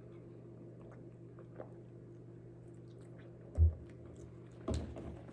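Quiet chewing of a mouthful of burrito, with faint small wet clicks over a low steady hum. A short dull thump comes about three and a half seconds in, and a softer knock about a second later.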